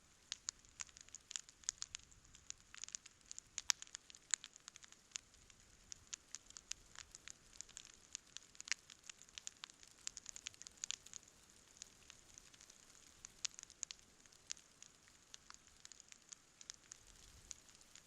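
Wood campfire burning with frequent sharp, irregular crackles and pops over a faint hiss.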